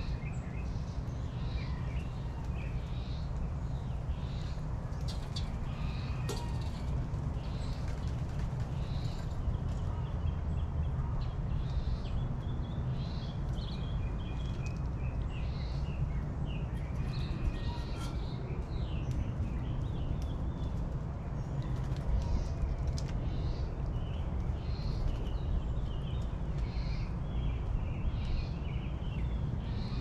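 Wild birds chirping and calling, many short repeated calls one after another, over a steady low rumble.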